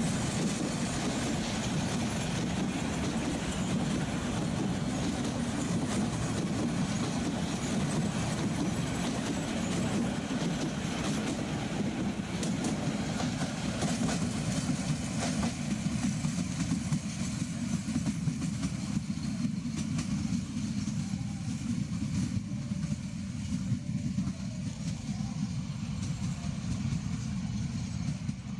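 Passenger coaches of a diesel commuter train rolling past, wheels clattering over the rail joints. The sound thins out in the second half as the train moves away, leaving a low steady rumble.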